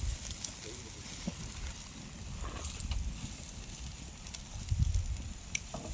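Wood fire crackling with scattered sharp pops, and wind rumbling on the microphone.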